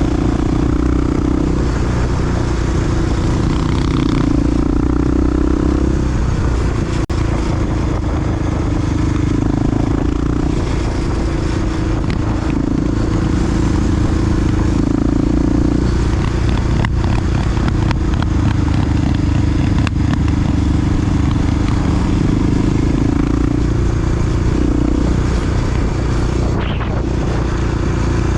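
A large single-cylinder four-stroke Honda XR dual-sport motorcycle engine running under way, its note wavering slightly up and down with the throttle.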